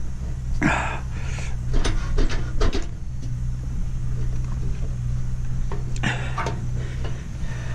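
Scattered clinks, knocks and short scrapes of metal parts being worked loose from a stainless steel steamer, over a steady low hum.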